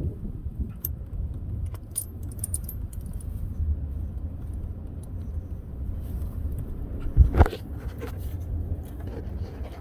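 Hand tools and loose metal parts clinking against each other while the old mechanical fuel pump's mounting bolt is worked loose from the engine block, with a few sharp clicks early on and one heavy knock about seven seconds in, over a steady low rumble.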